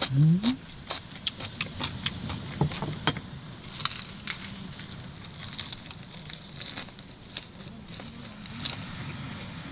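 Mushrooms crackling and popping on a hot grill, with irregular sharp crackles over a faint steady hiss. A short rising hum from a person's voice comes right at the start.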